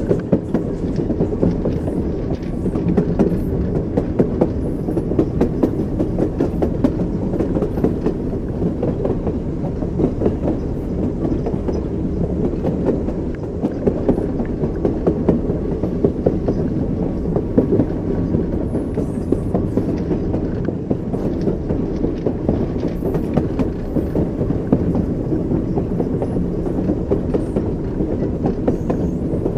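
Train running on rails, steady rumble with the repeated clickety-clack of wheels passing over rail joints.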